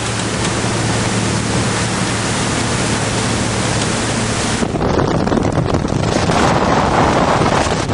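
Wind rushing over the microphone and water noise from a 57 ft Carver motor yacht running at about 30 mph, with a steady diesel engine drone underneath. A little over halfway through, the hiss abruptly loses its highest part and turns rougher and gustier.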